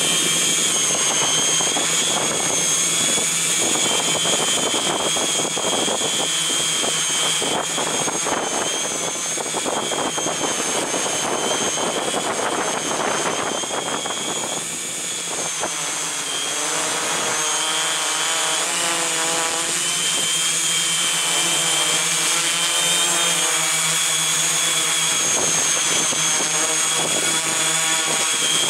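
Multirotor drone's electric motors and propellers running with a steady high whine, with wind noise on the onboard microphone.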